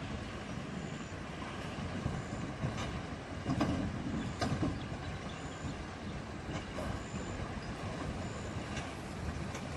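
Four-wheel drive towing a heavy camper trailer through a river crossing, its engine running steadily, with a couple of knocks about three and a half and four and a half seconds in.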